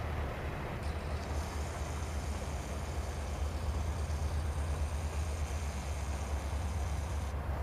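Distant train approaching: a low, steady rumble, with a faint high whine from about a second in until just before the end.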